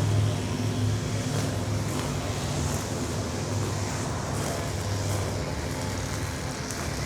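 Street traffic: a motor vehicle's engine running close by, its low hum loudest at the start and fading over the next few seconds as it moves off.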